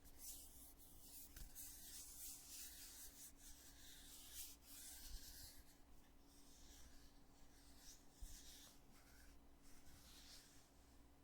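Faint rubbing and scraping of a cosmetic foundation container's lid being handled, a continuous scratchy hiss for about the first six seconds, then shorter strokes.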